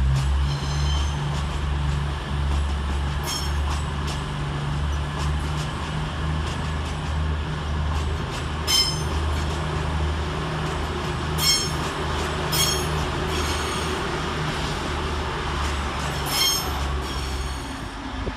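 Diesel multiple unit engines running with a steady low rumble in the station, with several short high-pitched wheel squeals from slow-moving train wheels.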